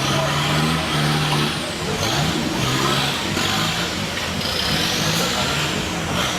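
A 4x4 off-road vehicle's engine running and revving in short bursts, its pitch stepping up and down, with a high whine that rises and falls several times.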